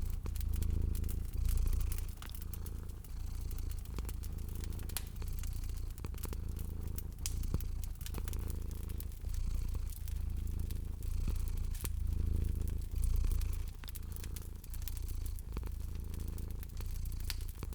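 Domestic cat purring steadily in regular swells, over a wood fire crackling with frequent small sharp pops.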